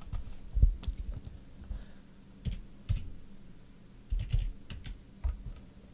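Irregular computer keyboard and mouse clicks, with a few soft thumps on the desk.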